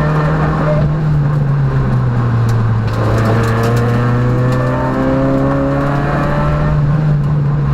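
Peugeot rally car's engine running loud and steady inside the cockpit, its pitch rising slowly under acceleration for a few seconds in the middle and then settling.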